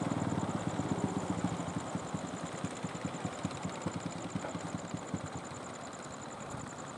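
Fishing boat engine chugging with a fast, even beat, growing fainter as the boat moves away.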